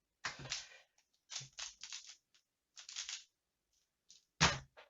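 Plastic Pyraminx puzzle being turned quickly in a speedsolve: short clusters of rattling clicks from the turns, ending with one sharp, louder knock near the end as the solve stops.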